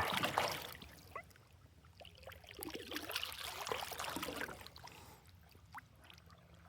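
Canoe paddle strokes, water swishing and dripping off the blade in two stretches, the second about two seconds in.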